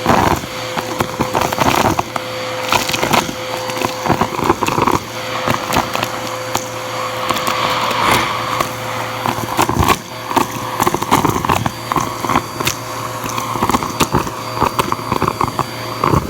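Bissell vacuum cleaner running steadily through its hose, its motor hum overlaid by a constant rapid crackle and clatter of debris being sucked up.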